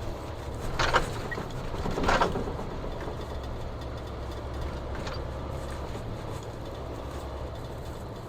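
A car driving on a snowy road, heard from inside the cabin: a steady low engine and road rumble, with two brief swishes about one and two seconds in.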